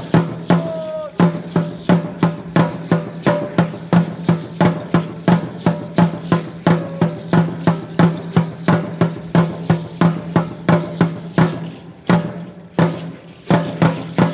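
Huehuetl drum beating a fast, steady son rhythm for Aztec dance, about three strokes a second, with a brief break in the pattern near the end.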